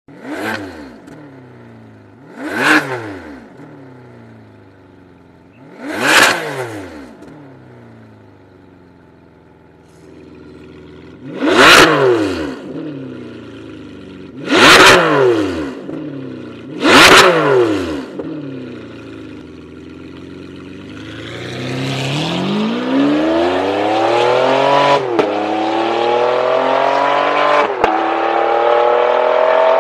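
Ferrari 599 GTB's V12 through an iPE ValveTronic catback exhaust with 200-cell high-flow cat pipes. It is blipped six times in short, sharp revs, then accelerates hard with the pitch climbing and breaking at each upshift.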